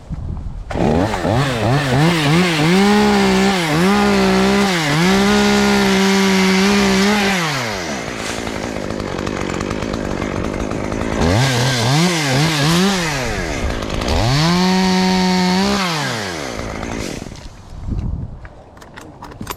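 Chainsaw revved in short blips, then held at full throttle for several seconds and let drop back at about eight seconds in; it revs up again from about eleven seconds, holds high once more and dies away near seventeen seconds.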